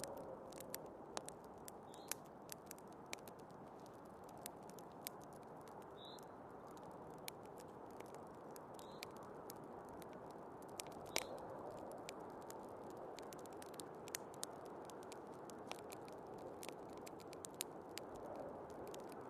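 Wood fire crackling in a fireplace, with irregular sharp pops, over a steady whoosh of snowstorm wind.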